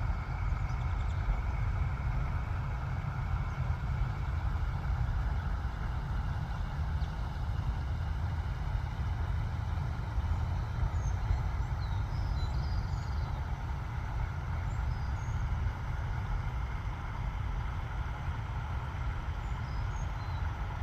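Steady low, rushing noise of a small waterfall, with faint, short, high bird chirps now and then through the middle and later part.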